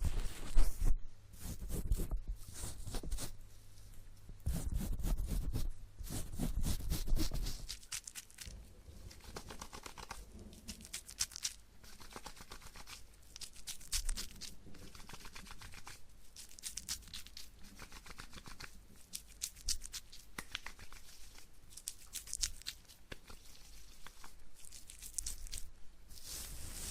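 Close-miked ASMR trigger sounds: irregular scratchy crackling and rustling in bursts, heavier in the first several seconds and lighter afterwards.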